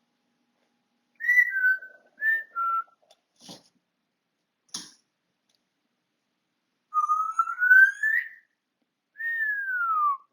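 African grey parrot whistling: two short pairs of falling notes, then two brief soft huffs, then after a pause one long rising whistle and one long falling whistle.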